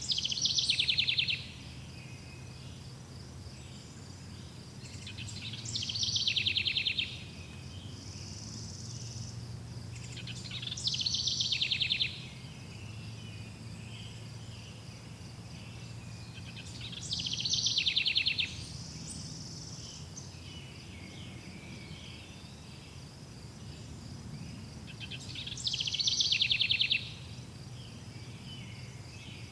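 A songbird repeating its song five times, each phrase about a second and a half long, falling into a fast trill that ends abruptly. Underneath, insects or crickets keep up a steady high chirring, with a low background rumble.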